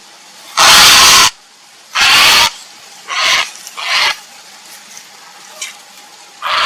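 Grey heron giving harsh calls as it calls for a mate: two loud calls of under a second each, then three shorter, fainter ones.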